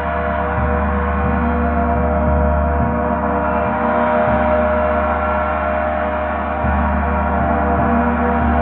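A gong resonating steadily, many overlapping sustained tones ringing together over a deep hum that swells and drops every second or so.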